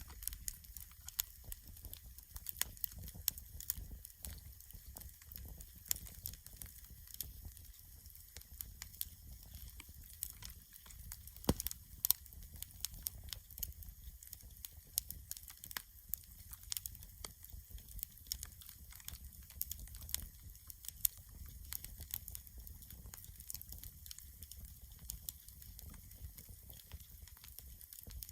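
Wood campfire crackling, with irregular sharp pops all through and a couple of louder pops about twelve seconds in.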